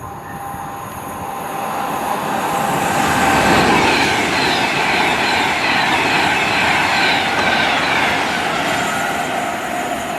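A train running past on the line, growing louder over the first few seconds and then holding steady, with several high steady tones over the rushing noise of wheels on rail.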